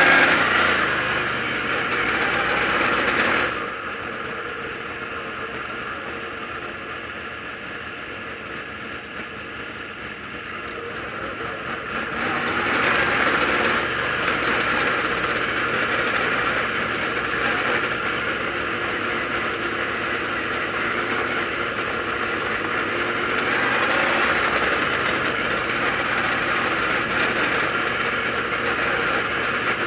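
Dirt late model race car engine running at low parade speed. It eases off about three and a half seconds in and comes back up about twelve seconds in.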